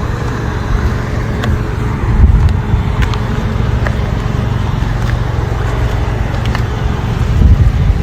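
Car driving: a steady low rumble of engine and road noise, with occasional faint clicks. It swells briefly about two seconds in and again near the end.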